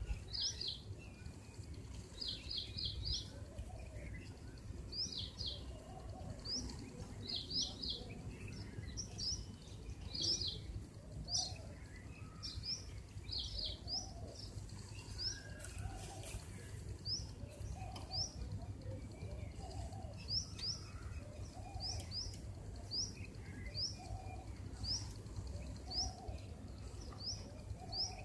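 Small birds chirping over and over: short, high, rising chirps, in quick runs of three or four at first and then singly about once a second, over a low steady hum.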